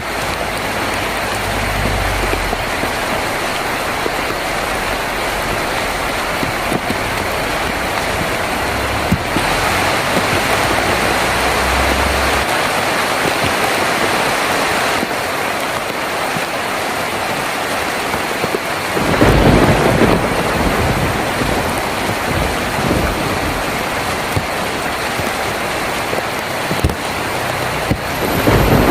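Heavy rain drumming steadily on a tin roof. A louder rumble of thunder swells up about two-thirds of the way through, and another starts near the end.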